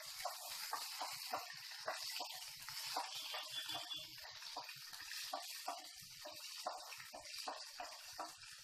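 Sprouted green peas and tempering seeds frying in oil in a non-stick pan: a steady, faint sizzle, with frequent light scrapes and taps of the spatula stirring them.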